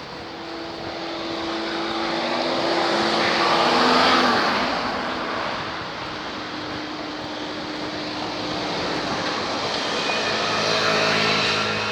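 Motor vehicles passing on a road, one after another: the first swells to its loudest about four seconds in and fades, and a second approaches and is loudest near the end.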